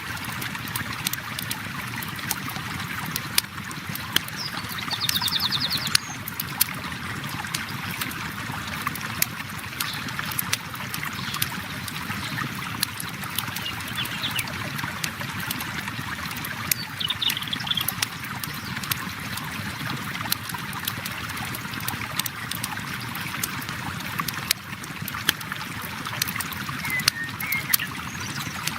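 River water flowing steadily, with a campfire crackling and popping in sharp, irregular clicks throughout.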